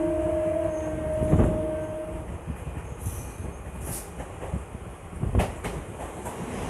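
Electric multiple-unit local train running at speed, heard from its open doorway, with a steady rush of wheel and wind noise. There are sharp knocks from the wheels over rail joints about one and a half seconds in and again about five and a half seconds in. A steady two-note tone sounds over the first two seconds.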